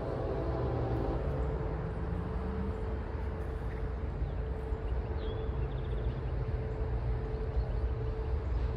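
A train running by with a steady low rumble and a faint steady hum.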